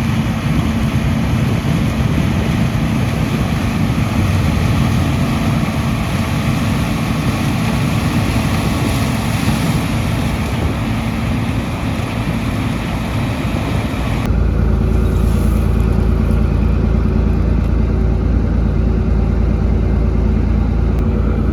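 John Deere 6600 combine running steadily under harvest load, a loud continuous machine noise with a steady hum. About two-thirds of the way through, the sound switches abruptly to a deeper, more muffled rumble with less hiss.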